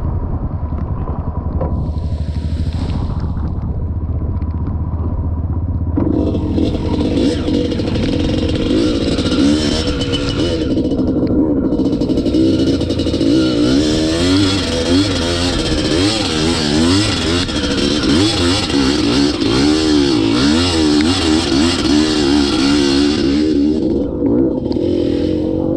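Dirt bike engine ticking over, then from about six seconds in pulling away and running under load, its revs rising and falling as it rides the trail.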